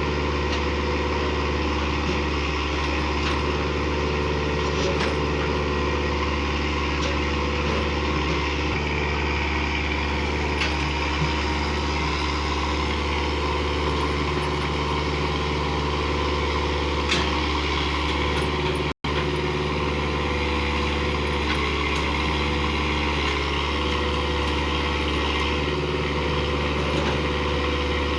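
Diesel engine of a JCB 4x4 machine running steadily at a constant speed, with no revving. The sound cuts out for an instant about two-thirds of the way through.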